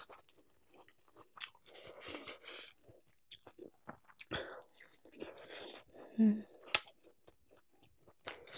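Close-miked chewing of a mouthful of rice and curry: wet chewing, lip smacks and small clicks in irregular bursts, with a brief hummed voice sound about six seconds in.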